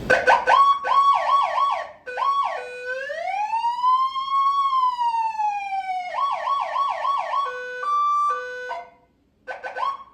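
Fire engine's electronic siren cycling through its tones: a fast yelp, then a slow rising and falling wail, the yelp again, then a two-tone hi-lo. It drops out briefly and gives a short burst of yelp near the end.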